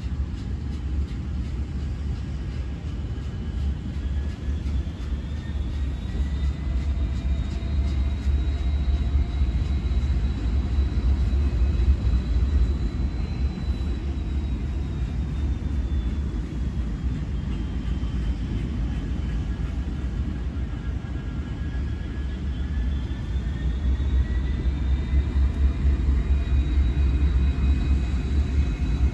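Low, steady rumble of a train, with a faint high whine that slowly rises and falls.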